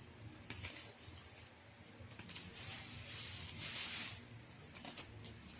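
Plastic packaging rustling and crinkling as a shirt is unwrapped, with a few light clicks early on and the rustling loudest in the middle.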